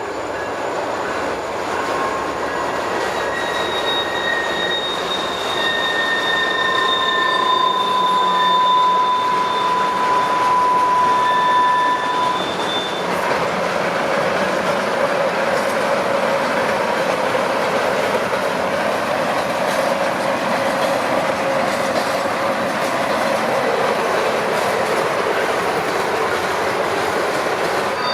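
Alaska Railroad train rolling past, a steady loud rush of wheels on rail. Through the first half, the wheels squeal in several thin high steady tones that fade out about twelve seconds in.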